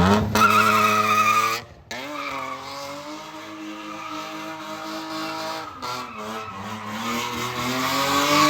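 BMW E36 engine pulling at high revs while the tyres squeal in a drift. The revs climb sharply at the start and hold. After a short break the engine holds lower revs that rise slowly toward the end.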